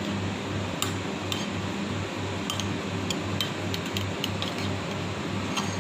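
A spoon clinks and taps against a bowl now and then while a sauce is stirred: about ten light clinks in all. A low hum pulses about two or three times a second underneath.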